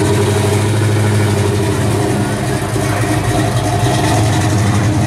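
Classic muscle car engine idling steadily as the car creeps forward at low speed.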